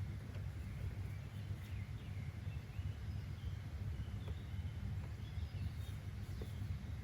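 Outdoor nature ambience: a steady low rumble with scattered short bird chirps.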